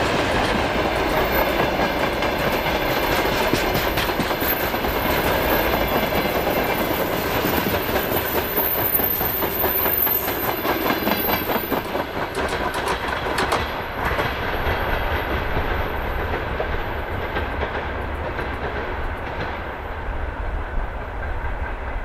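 Open freight wagons of a diesel-hauled goods train rolling past with a rapid clickety-clack of wheels on the rails. About two-thirds of the way through, the clatter thins out as the last wagons go by, and the rumble fades into the distance.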